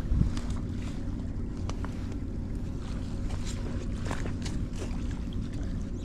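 Low, steady rumble with a faint hum, broken by scattered light clicks.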